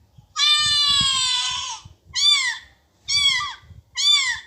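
A cat meowing: one long, slightly falling meow, then three short meows that rise and fall in pitch, about one a second.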